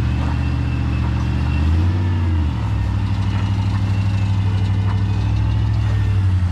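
Jeep engine running at idle with a slight rhythmic pulse; the revs rise and fall once, briefly, about two seconds in.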